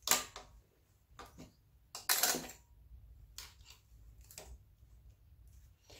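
Scattered clicks and knocks of hand tools and parts being handled during engine disassembly, about half a dozen in all, with a longer scraping rasp about two seconds in.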